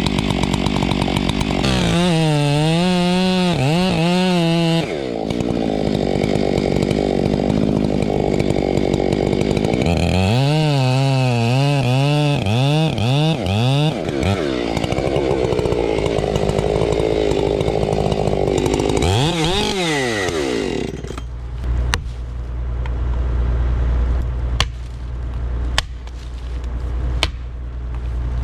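Chainsaw cutting into a large tree trunk, its engine pitch wavering up and down as the revs rise and fall under load. About 21 seconds in it gives way to a low steady rumble with scattered sharp cracks.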